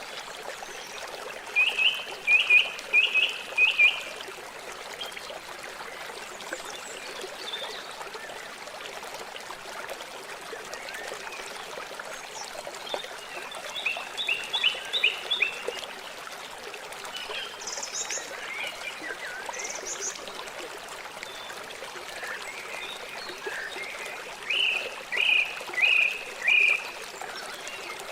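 River water flowing with a steady rushing and trickling. Over it come short, high chirping calls from a small animal in three bursts of several quick notes: one near the start, one around the middle and one near the end.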